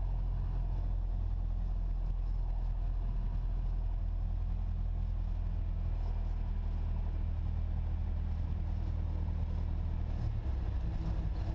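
Cessna 172SP's four-cylinder Lycoming engine running at low power, heard from inside the cabin as a steady low drone: taxiing onto the runway before the takeoff roll. Its note shifts about ten and a half seconds in.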